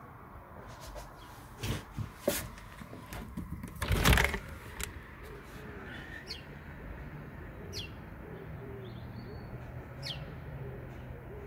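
Short bird calls over a faint steady low hum, with several sharp clicks and a louder knock about four seconds in.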